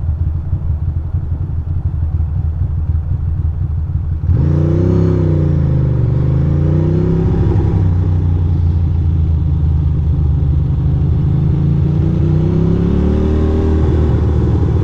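Ducati Monster 620's air-cooled V-twin running at a low, steady rumble. About four seconds in it suddenly gets louder as the bike pulls away, its revs falling and rising again as it rides on.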